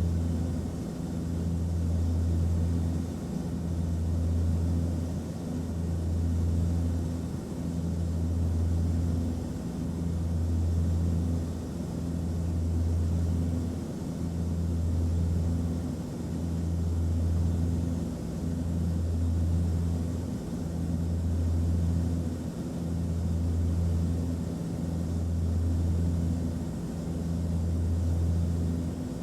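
Airplane cabin noise in flight: a steady low rumble and hiss, with a deep drone that swells and fades about every two seconds.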